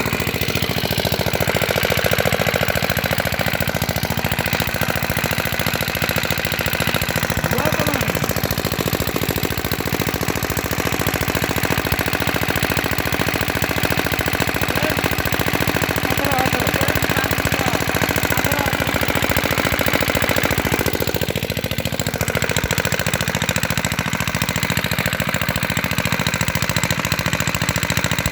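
Comet 5 hp single-cylinder stationary diesel engine with a 76 mm bore, running steadily at an even speed with a rapid, regular beat from its firing strokes.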